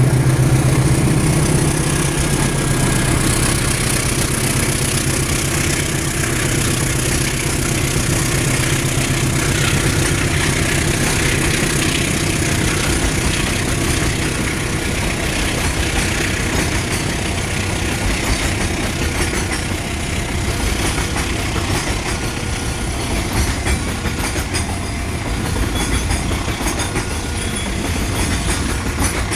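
Long freight train's wagons rolling past on the rails in a steady run, with wheel clatter over the rail joints. The locomotive's engine hum fades out over the first several seconds.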